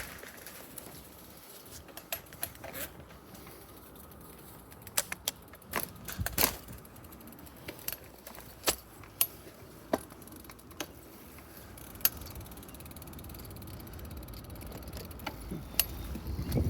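A bicycle being handled before a ride: irregular sharp clicks, knocks and light metallic rattles. A low rumble builds near the end as it gets moving.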